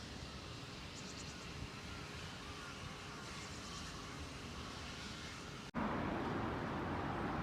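Outdoor street ambience: a quiet, steady background with two faint runs of rapid high chirping. About three-quarters in it cuts abruptly to louder traffic noise.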